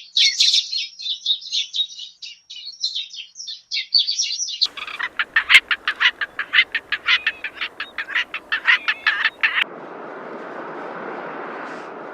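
Birds chirping in a dense, high twittering for about four and a half seconds. Then comes a fast run of sharp repeated calls, about four to five a second. These stop suddenly near ten seconds, leaving a steady hiss-like background noise.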